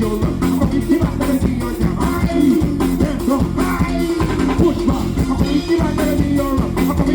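A live band playing up-tempo soca-style dance music with a steady, even beat and a strong bass line, with some singing over it.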